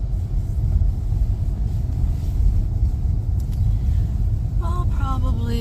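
Steady low rumble of a vehicle driving, its engine and tyres heard from inside the cab. A voice begins near the end.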